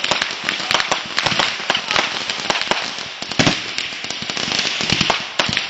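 Consumer fireworks going off: rapid, irregular crackling pops, many a second, over a steady hiss.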